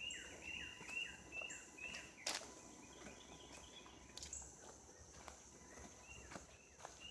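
A bird singing a run of repeated down-slurred whistled notes, about two a second, that fade out after the first two seconds, over a faint steady high insect drone. A sharp click cuts in a little over two seconds in.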